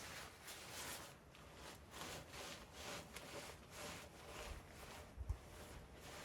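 Rhythmic rubbing or scraping strokes, about two a second, with a short low thump a little past five seconds in.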